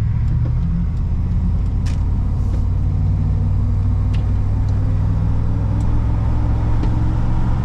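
OBS Chevy pickup truck's engine running steadily with a low drone, a few faint ticks over it.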